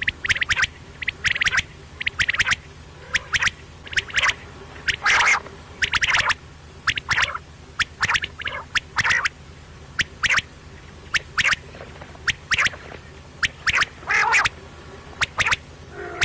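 Quail calling over and over: short, sharp notes in quick clusters, about one cluster a second, with a faint low hum underneath.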